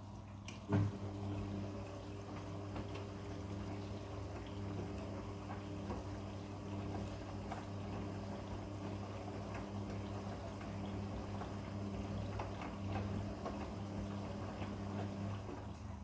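Midea front-loading washing machine during its wash: a sharp click about a second in, then the drum motor hums steadily while water sloshes in the turning drum. The hum fades near the end.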